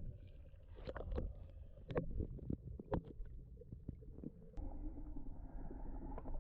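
Muffled underwater rumble with scattered sharp knocks and clicks: a diver scraping marine growth off a yacht's sail drive to clear its blocked raw-water sea intake.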